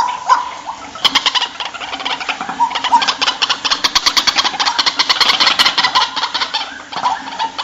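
White-breasted waterhen calling: a fast, harsh run of repeated notes lasting several seconds, with short croaking notes before and after it.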